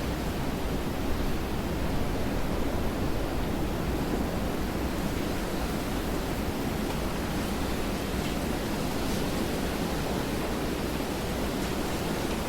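Steady rain, an even, unbroken rush of noise weighted toward the low end.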